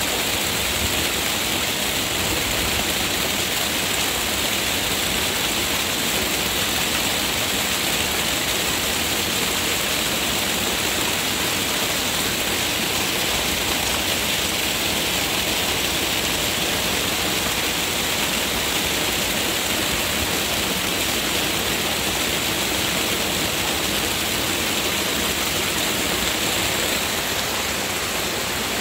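Heavy rain pouring down on leafy trees and foliage: a steady, even hiss.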